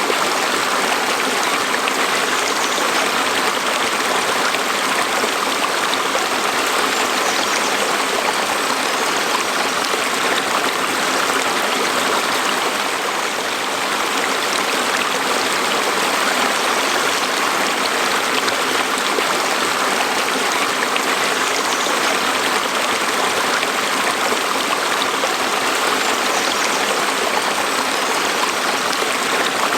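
A stream flowing over rocks, a steady, unbroken rush of water.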